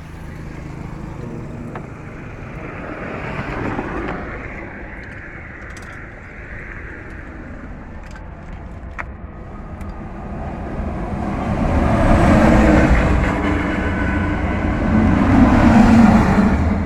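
Motor vehicle engine running, swelling louder twice in the second half.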